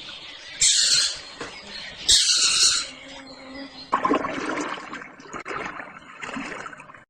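An animal squealing: three short high-pitched squeals, then a lower, rougher call from about four seconds in that cuts off suddenly.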